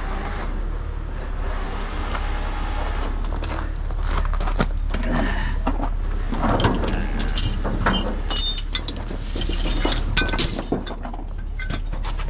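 Steady low drone of an idling heavy truck, with repeated sharp metallic clinks and clanks starting a few seconds in, as tow chains, hooks and rigging are handled and taken down.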